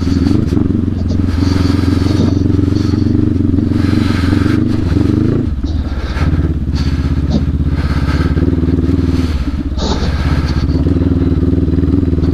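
Adventure motorcycle engine running steadily under throttle on a dirt trail. The revs drop briefly about five and a half seconds in and again near ten seconds, as the throttle is eased or a gear changed.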